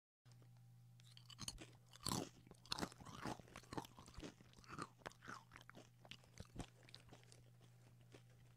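Crispy deep-fried potato being bitten and chewed, quiet irregular crunches that are sharpest about two seconds in and thin out toward the end, over a low steady hum.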